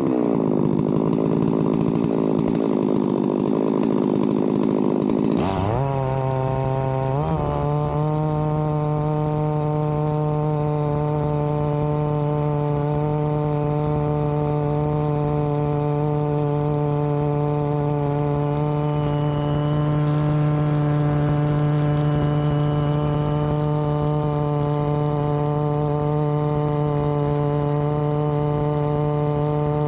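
Chainsaw running at high speed. For the first five seconds or so it has a harsh, rasping sound with a lower, strained engine note. The pitch then rises sharply twice, and the saw settles into a steady high-revving whine.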